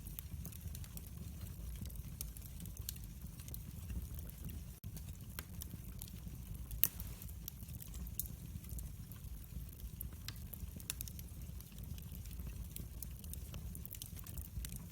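Fire crackling in a fireplace: scattered sharp pops and snaps over a low steady rumble, with one louder pop about seven seconds in.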